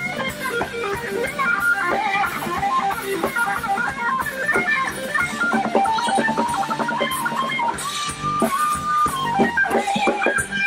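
Band music led by a guitar playing a melodic line of quick, stepping notes over a steady backing.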